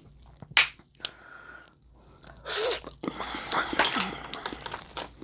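Close-miked eating of a seafood boil: a short sharp sound about half a second in, then from about three seconds on a dense run of wet chewing and crunching as crab legs and shrimp are eaten.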